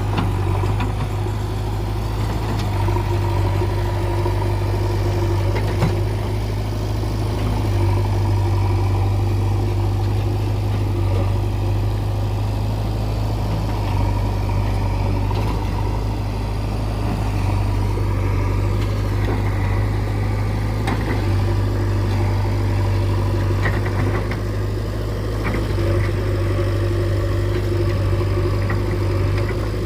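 Diesel engine of heavy land-levelling machinery running steadily at a low, even speed, with a strong low hum and no change in pace.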